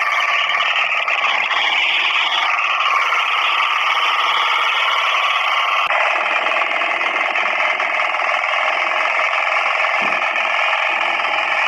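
Power weeder's small engine running steadily under load, with an abrupt change in the sound about six seconds in.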